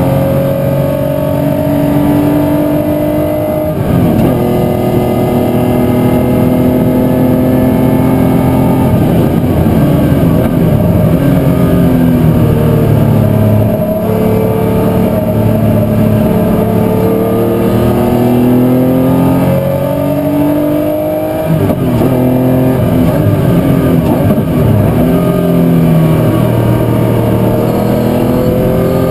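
Historic muscle car engine at racing speed, close and loud: the pitch climbs through the revs, drops at each upshift, and steps down in a series of downshifts through the middle before climbing again.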